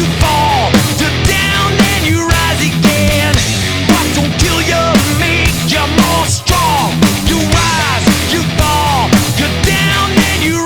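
Loud, heavy rock music with a steady beat, strong bass and drums, and repeated notes that bend and slide downward in pitch.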